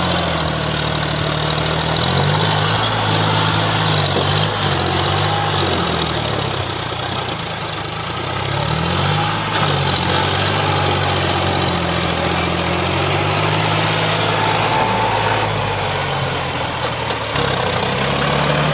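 John Deere 5036 tractor's diesel engine running while hauling a soil-loaded trolley, its engine speed dipping and rising again several times.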